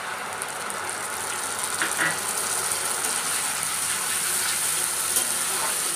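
Sliced onions and freshly added tomato paste sizzling in hot oil in a kadhai, stirred with a spatula that scrapes and clicks against the pan now and then. The sizzle is steady and builds slightly.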